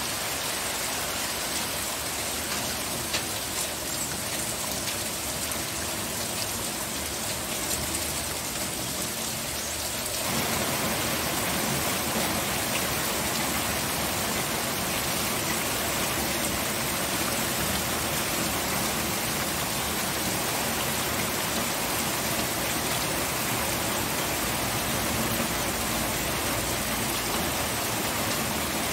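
Steady rain falling, an even hiss of drops with no distinct strikes standing out. About ten seconds in, the rain becomes fuller and slightly louder, then holds steady.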